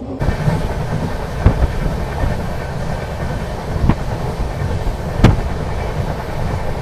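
Indian Railways passenger train running: a steady rumble of wheels on the track, with three sharp knocks of the wheels crossing rail joints, the last and loudest near the end.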